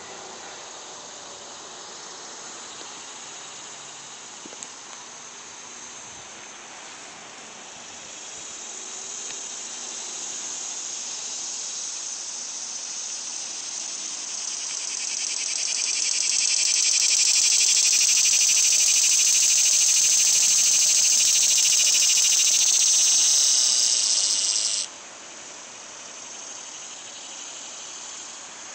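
Cicadas buzzing in chorus, a dense high-pitched drone that swells to a loud peak, then drops off abruptly near the end, leaving a fainter buzz.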